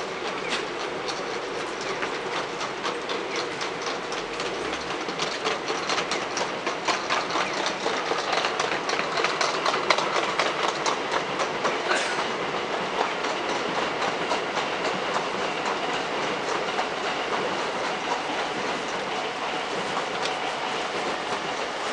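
A train passing, its wheels clattering over rail joints in rapid clicks over a steady running noise; the clatter builds, is loudest around the middle, and fades away.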